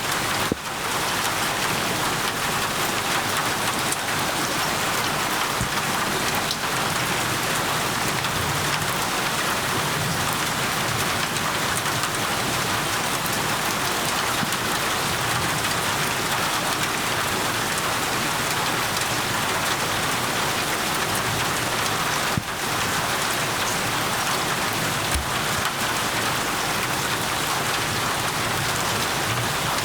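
Steady rain falling on surfaces: an even, unbroken hiss.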